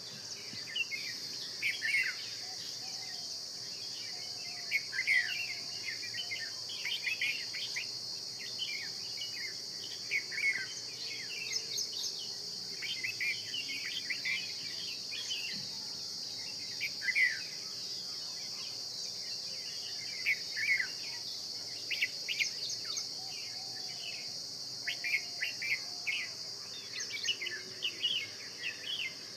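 Morning birdsong: many short, sharp chirps and whistled notes from several birds, repeating throughout over a steady high-pitched insect drone.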